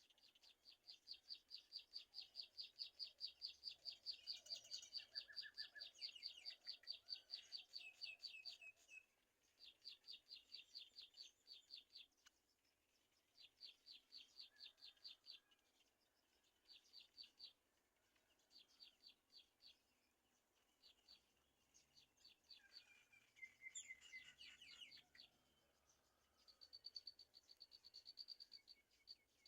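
A bird chirping in rapid runs of high chirps, about five a second, in repeated bouts of one to several seconds, with a brief burst of lower, falling notes about three quarters of the way through.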